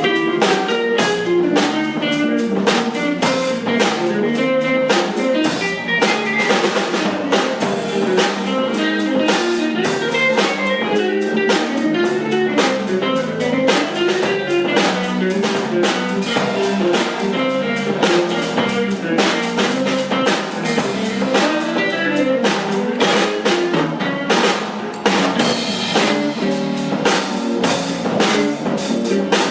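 A band playing a song with drum kit and guitar: a steady beat of drum and rim hits over a guitar line.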